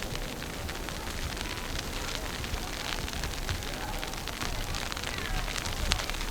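Wind buffeting the microphone in a low, uneven rumble, under a steady crackle with many small scattered clicks.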